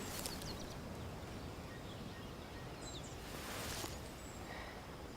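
Wetland outdoor ambience: a steady low background rumble with a few faint, short bird chirps, and a brief rustle a little over three seconds in.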